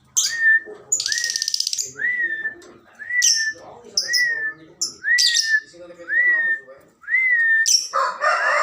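Lovebirds calling: shrill, high chirps and a short rasping buzz about a second in, over a rising whistled note repeated about once a second.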